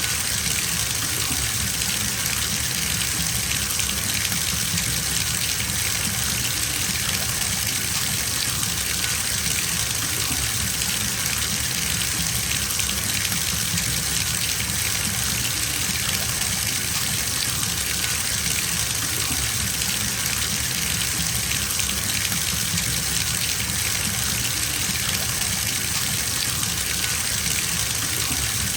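Bathtub tap running full, water gushing steadily into the tub as it fills.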